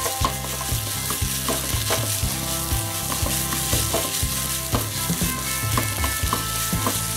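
Thick onion-and-tomato masala sizzling in oil in a pan while being stirred, the spatula scraping and knocking against the pan about twice a second.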